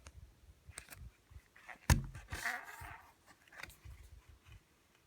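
A sharp click about two seconds in, followed by a brief rustle and a few faint scattered taps: handling noise.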